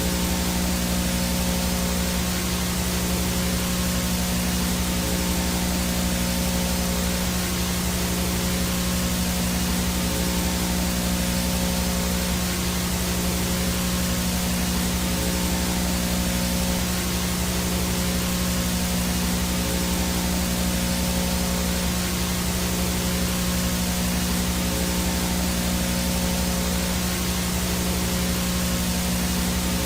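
Analog VHS no-signal static: a steady, even hiss of video snow with a low electrical hum underneath, unchanging throughout.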